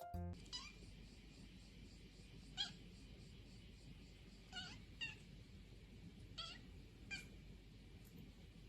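A cat meowing: six short, faint calls spaced a second or two apart, each rising in pitch.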